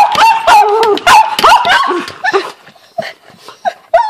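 A small dog yapping excitedly in rapid high-pitched barks, about three a second, easing off after about two and a half seconds to a few scattered yips.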